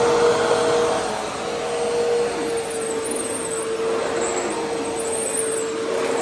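Vacuum cleaner running steadily: a rush of air with a constant motor whine.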